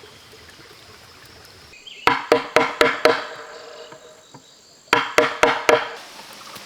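A blade chopping at bamboo: a quick run of five ringing strokes about two seconds in, then a second run of four near the end.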